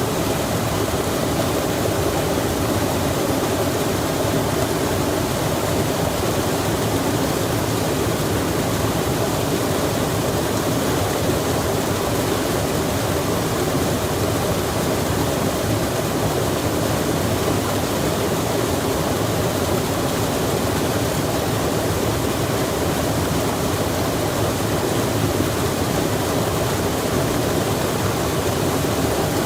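Rain falling beside a flowing stream: a steady, unbroken rush of running water.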